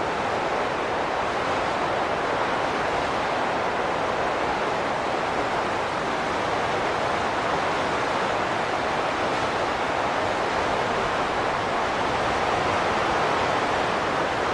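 Steady rushing wind with no gusts or pauses, an even hiss strongest in the middle range.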